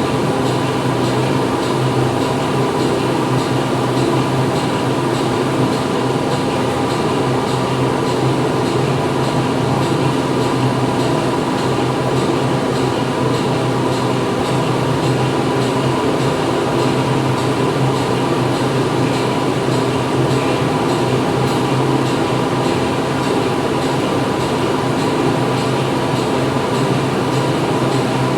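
Steady factory machinery din: a constant mechanical hum with several held tones over a dense rushing noise, unchanging throughout.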